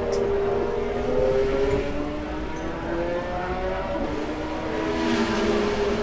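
Car engine sound with its pitch gliding slowly up and down, several pitches overlapping.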